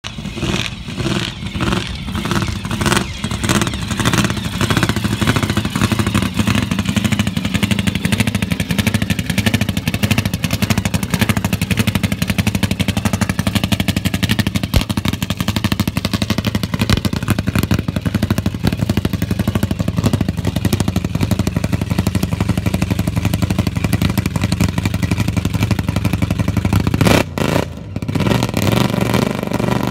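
Classic muscle car engine running loud and rough at low speed as the car creeps across the grass, pulsing unevenly at first and then settling into a steady deep rumble, with a short lull near the end.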